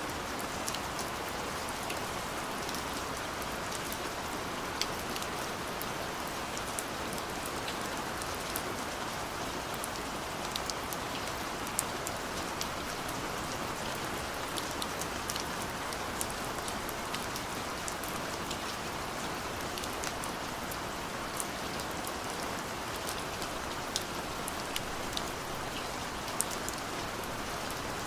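Steady rain: an even hiss of falling rain with many scattered sharp drop ticks.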